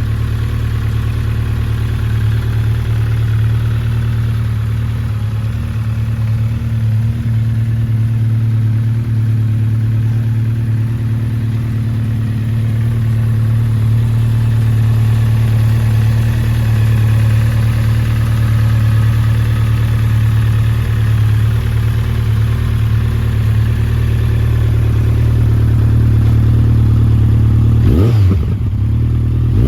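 Honda CB1300 Super Four SP's 1284 cc inline-four engine idling steadily, with a quick blip of the throttle near the end.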